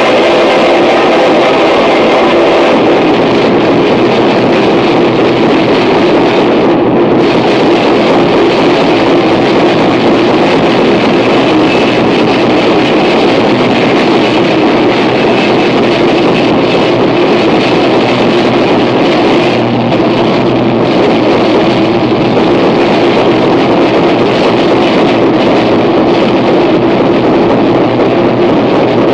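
Harsh noise music: a loud, dense, unbroken wall of noise with a steady low drone running through it. The highs thin out briefly about seven seconds in.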